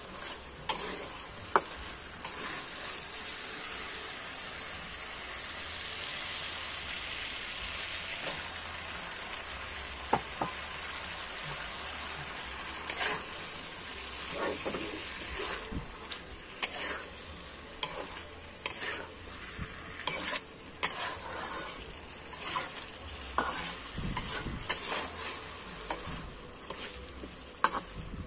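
Chicken pieces frying in a wok with a steady sizzle while a spatula stirs them, with frequent sharp clicks and scrapes of the spatula against the pan.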